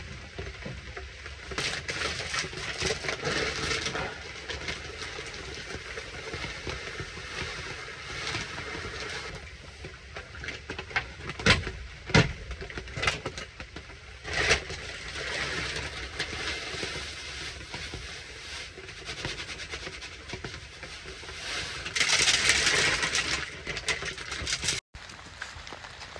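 Heavy rain pattering, with rustling, scraping and crackling close to the microphone, two sharp knocks about eleven and twelve seconds in, and a louder burst of hiss near the end.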